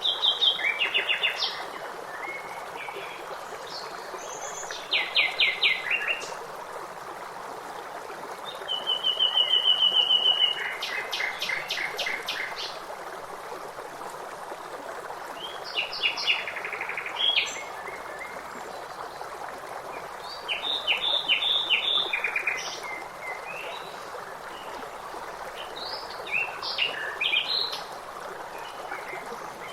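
Songbirds singing short phrases every few seconds, one a fast trill, over the steady rush of a running stream.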